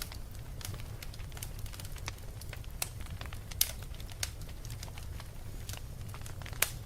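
Wood fire crackling: irregular sharp pops and snaps over a steady low rumble, two pops standing out louder, about three and a half seconds in and near the end.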